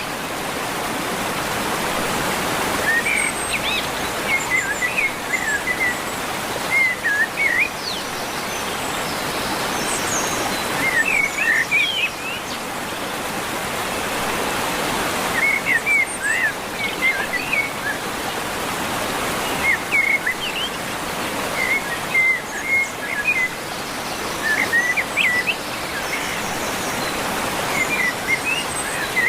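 Waterfall rushing steadily, with a songbird singing short chirping phrases every few seconds over the water noise.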